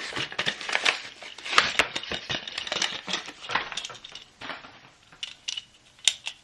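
Stiff plastic blister packaging of a Pez truck dispenser crackling and clicking as it is handled and pried open. The sound is dense for about four seconds, then only a few scattered sharp clicks.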